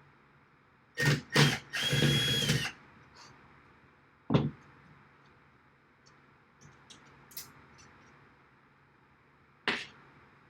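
Power drill triggered in two short blips, then run for about a second with a steady whine. Two sharp knocks follow later, one a few seconds after the drill stops and one near the end.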